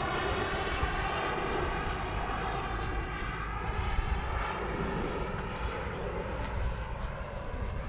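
Radio-controlled model jet flying, its engine giving a steady whine with several pitched tones that drift slowly in pitch. It grows a little quieter toward the end.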